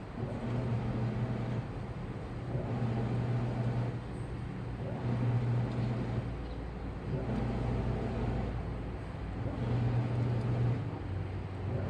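Washing machine running, its motor humming low under a rushing, churning noise that swells and eases every two to three seconds.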